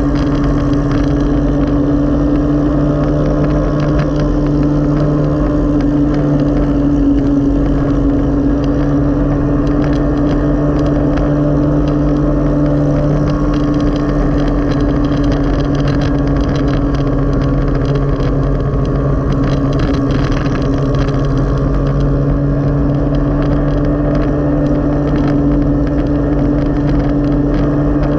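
Motorcycle engine of a sidecar tricycle running at a steady cruise, its pitch holding even, over road noise.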